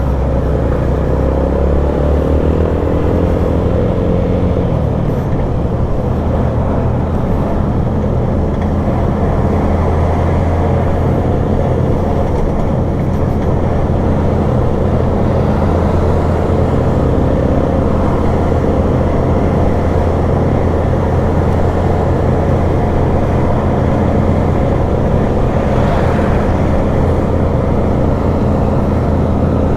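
Steady engine drone of a vehicle under way, deep and even, with its pitch shifting in the first few seconds.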